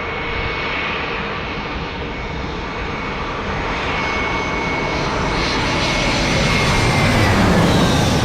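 Jet airliner engines growing steadily louder, with a steady high whine that drops slightly in pitch near the end as a low rumble builds.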